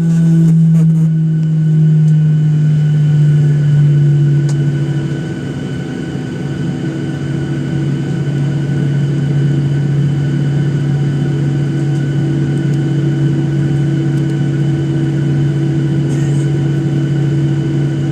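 Steady low drone of a Boeing 737-800's CFM56 engines at idle, heard inside the passenger cabin. Its pitch eases down a little over the first few seconds, then holds level.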